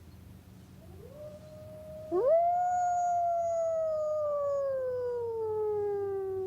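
A wolf howling: a faint howl rises about a second in, then a louder howl starts about two seconds in, rises quickly and slides slowly down in pitch through the rest.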